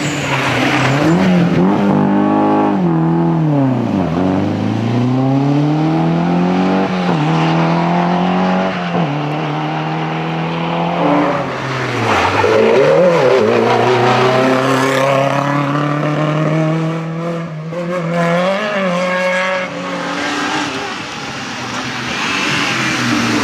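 Historic rally car engine running hard, its pitch repeatedly climbing under acceleration and dropping back as it shifts gear and slows for corners.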